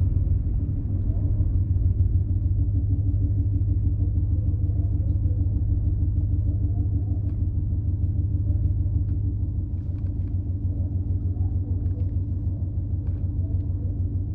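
Car engine idling with a steady, deep exhaust rumble, no revving; it drops slightly in level about ten seconds in.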